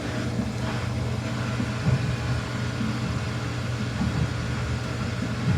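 Samsung washing machine in its spin cycle, the drum turning fast with a steady low hum and rumble.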